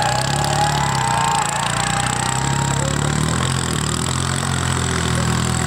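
Tractor diesel engine running steadily, its pitch wavering slightly partway through.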